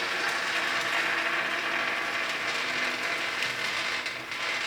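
A ratchet clicking rapidly and steadily, stopping near the end.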